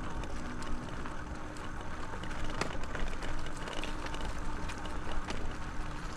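Folding e-bike riding along a dirt trail: a steady rumble of tyres and wind, a faint steady motor hum, and scattered clicks and rattles.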